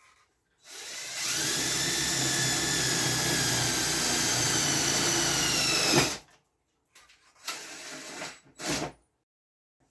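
Power drill running under load in steel for about five seconds, its pitch sinking slightly before it stops. A little handling noise follows near the end.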